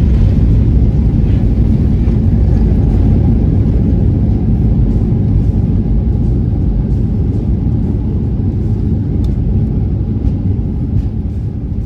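Steady low rumble of a Boeing 737-800 airliner heard from inside the cabin, slowly easing off in level, with a few faint ticks near the end.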